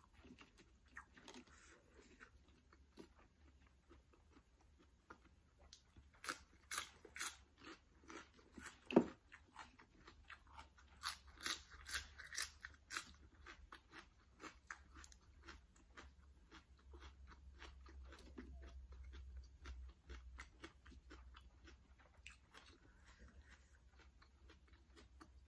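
A person chewing and biting crunchy food close to the microphone: bursts of crisp crunches, with the busiest stretches about six and eleven seconds in and one sharper crack about nine seconds in.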